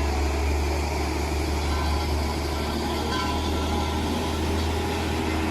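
Heavy truck engine running steadily, a constant low drone.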